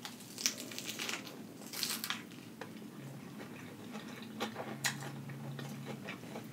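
Close-miked eating: a bite into a lettuce-wrapped burger, then chewing with scattered crisp crunches and wet mouth clicks from the iceberg lettuce.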